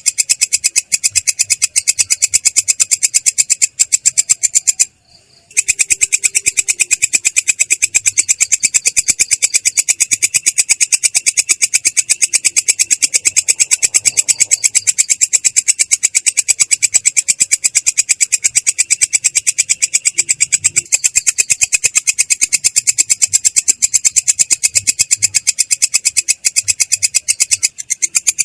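A belalang kecek katydid stridulating in a long, unbroken run of fast, even, high-pitched pulses, clear but rough, with one short pause about five seconds in.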